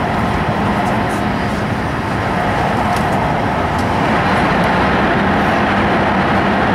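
Cabin noise inside an E5 series Shinkansen running at speed: a steady rushing noise with a low hum, growing a little louder about four seconds in.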